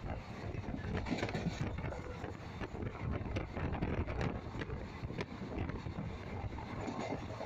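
Passenger train running at speed, heard from inside the coach at the window: a steady rumble of wheels on the rails mixed with wind buffeting the microphone, with scattered sharp clicks.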